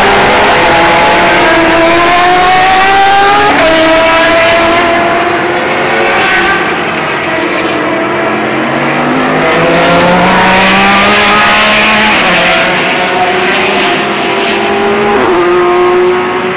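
Several endurance race cars running hard, their engine notes overlapping. The pitch climbs, drops sharply about three and a half seconds in and again near the end as the cars shift up, and climbs again in between.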